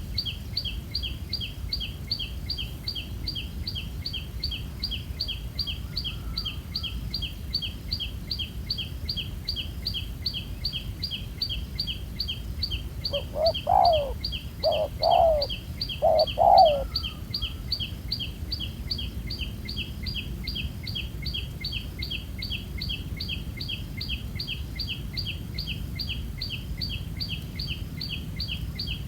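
Spotted dove cooing: three loud, low coos about 13 to 17 seconds in. A fast, even train of high chirps runs steadily beneath it.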